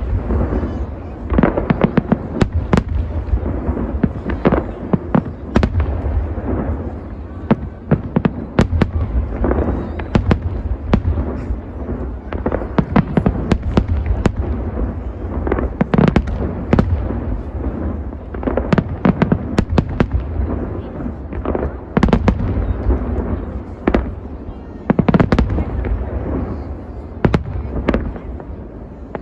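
Large fireworks display: a dense, continuous run of shell bursts and sharp bangs, many overlapping, over a steady low rumble.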